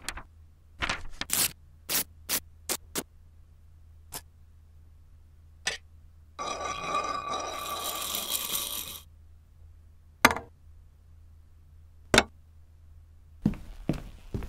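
A few short clicks and taps, then about six seconds in a few seconds of clattering as a red silicone whisk stirs loose plastic LEGO bricks in a ceramic bowl. Two sharp knocks follow, the loudest sounds, then a quick run of taps near the end.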